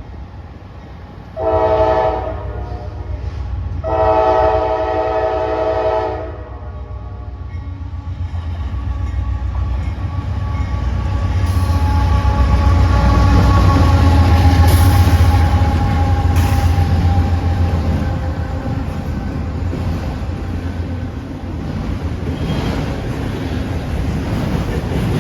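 Train horn sounds a short blast and then a longer one, then the train approaches and passes with a building low rumble of locomotive engines and wheels on rail, loudest around the middle and easing off near the end.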